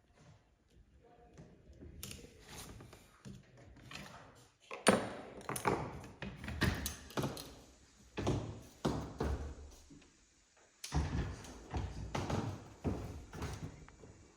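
A run of irregular knocks and thuds, several close together at times, with a short quiet spell about three quarters of the way through.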